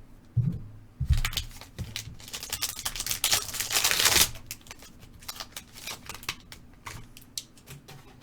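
A trading card pack being opened and its cards handled: scattered clicks and rustles of card stock, with a longer tearing, crinkling stretch of the wrapper about two and a half to four seconds in.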